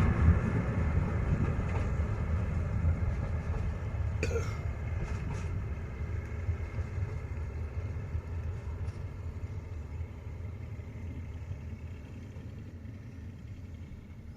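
Passenger train rumbling past and fading steadily as it moves away. A brief high squeal with a falling pitch comes about four seconds in.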